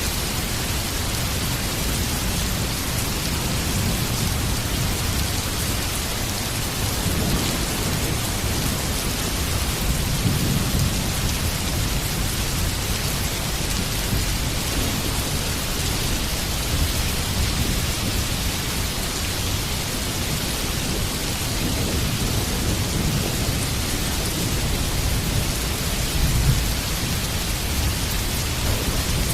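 Heavy rain falling steadily, with low rolls of thunder rising and fading several times; the loudest roll comes near the end.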